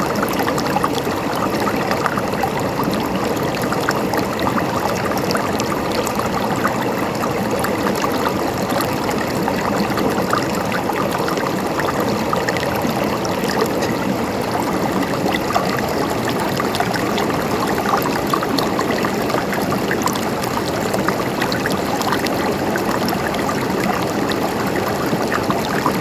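Mountain stream flowing steadily over rocks, a constant dense babble of running water.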